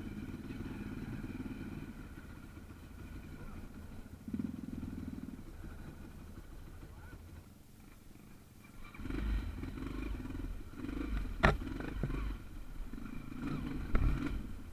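Trail motorcycle engine running at low revs, rising and falling. A sharp knock comes about eleven seconds in and another near the end.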